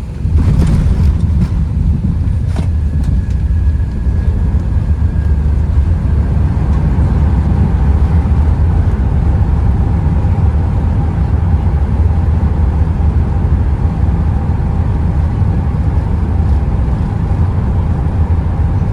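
Airbus A380 landing, heard from inside the cabin: a sudden loud jolt with a few knocks in the first seconds, then a steady heavy rumble as the aircraft rolls out on the runway.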